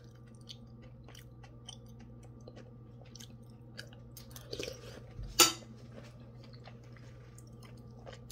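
Close, soft chewing and mouth clicks of a person eating a spoonful of cooked gourd from sayur asem, with one sharp click about five seconds in. A steady low hum runs underneath.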